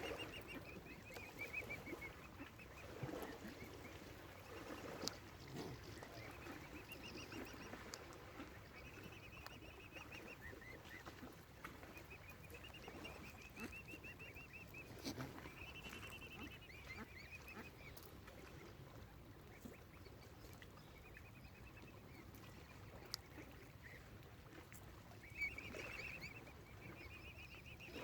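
Mute swan cygnets peeping: runs of high, thin calls repeated throughout, with a few lower calls from other waterfowl now and then.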